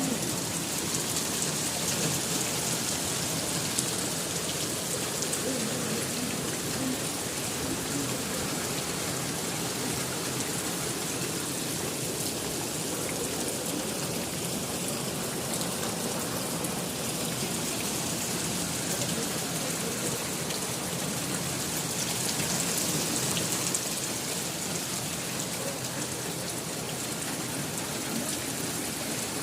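Heavy monsoon rain falling steadily, an even hiss.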